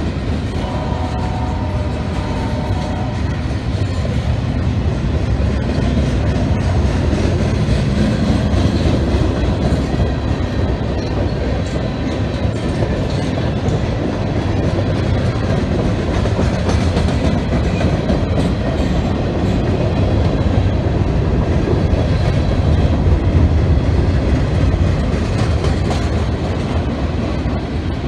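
Freight cars of a passing train rolling by: a steady rumble of steel wheels on rail with clickety-clack from the wheelsets crossing the rail joints. A brief ringing wheel squeal sounds over it in the first few seconds.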